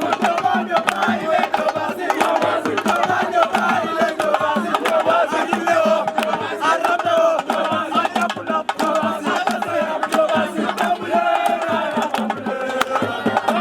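A crowd of many voices singing and chanting together over steady drumming, with frequent drum strikes throughout.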